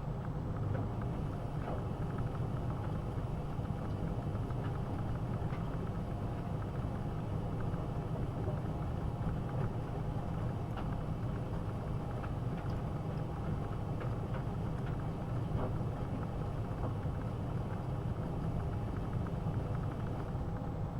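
AEG Öko-Lavamat 72520 front-loading washing machine running mid-cycle during a boil wash, a steady low hum with a few faint ticks.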